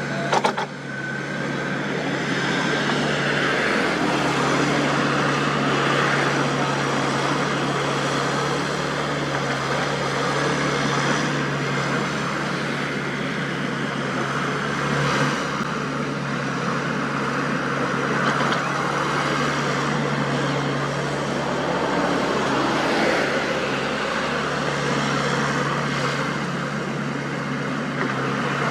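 Diesel engines of a Wacker Neuson 6003 mini excavator and a dump truck running steadily while they work soil, with a sharp knock just after the start.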